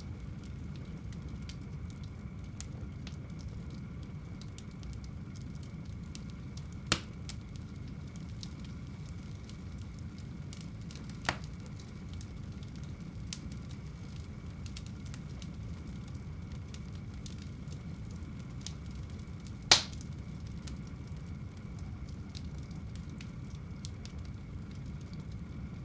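Wood fire burning in a home fireplace: a steady low rush of flames with scattered faint crackles and three sharp pops, about seven, eleven and twenty seconds in, the last the loudest.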